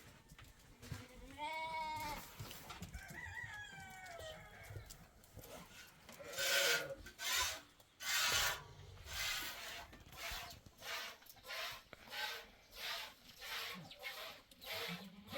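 A goat bleats twice, a wavering call and then a falling one. Then a rhythmic rasping scrape repeats about one and a half times a second.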